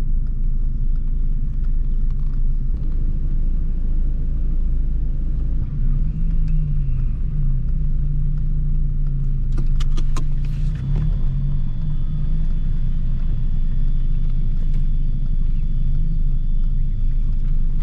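SAAB 900 Turbo's 2.0-litre turbocharged 16-valve four-cylinder engine running while driving, with steady low road rumble in the cabin. The engine note rises about six seconds in and holds, and a few sharp clicks come about ten seconds in.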